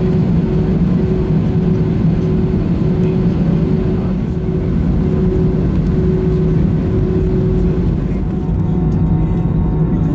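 Steady cabin noise of an Airbus A320 taxiing with its engines running: a low rumble under a constant hum.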